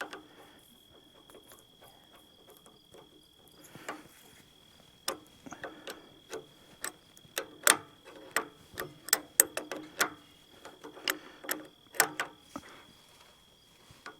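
A run of sharp, irregular metallic clicks and knocks, several a second, from hand tools working on an excavator's hydraulic hose fittings. They start a few seconds in and stop near the end, with a faint steady high tone behind them.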